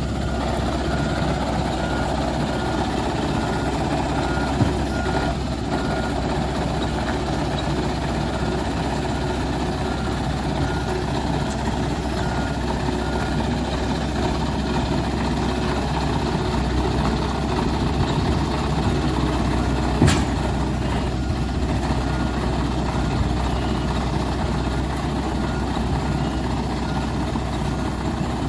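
Dump truck engine running steadily under a repeating reversing beeper, whose beeps fade out about halfway through. A single sharp knock sounds about twenty seconds in.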